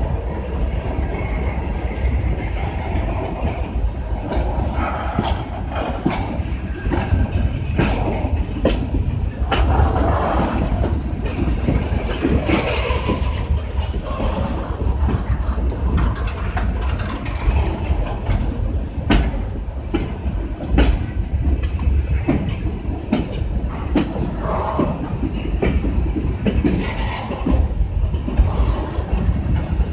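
Coal hopper cars of a slow-moving freight train rolling past: a steady low rumble with wheels clicking irregularly over the rail joints.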